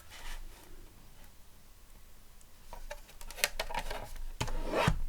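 Paper trimmer and craft card being handled while card is trimmed to size: quiet at first, then a few sharp clicks and taps from about three seconds in.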